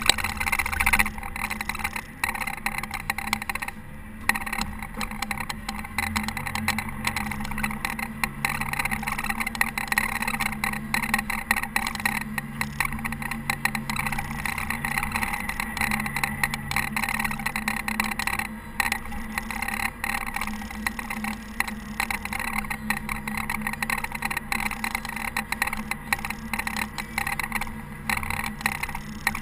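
Caterpillar TH330B telehandler's diesel engine running steadily under load while snowplowing, its low hum shifting slightly in pitch, with a constant rushing mechanical noise over it.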